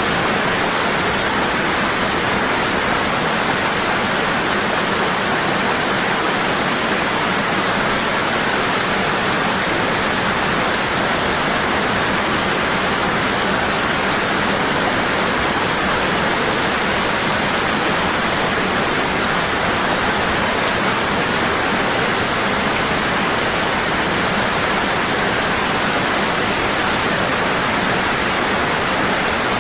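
Waterfall, water falling hard with a steady, unbroken rush.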